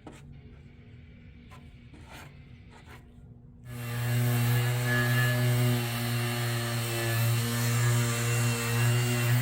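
A few faint taps over a low hum, then about four seconds in an electric power tool starts up and runs steadily with a loud motor hum and hiss.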